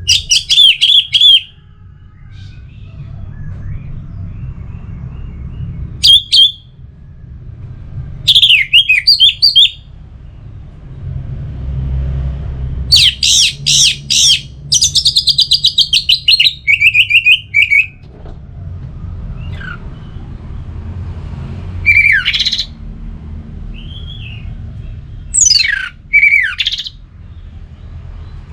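Orange-headed thrush (anis merah) singing loud, varied phrases of rapid whistled and warbled notes, separated by pauses of a few seconds; the longest phrase comes about midway. A steady low rumble runs underneath.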